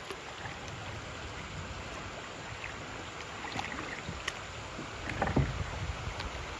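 Kayak paddling on a river: steady rushing water with a few sharper paddle splashes or knocks in the middle and second half.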